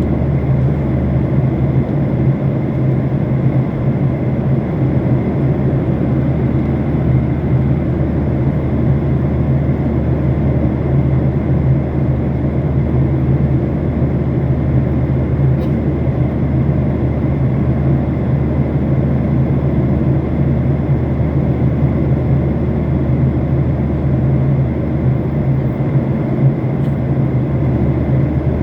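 Steady drone inside an airliner cabin in flight: engine and airflow noise with a strong low hum.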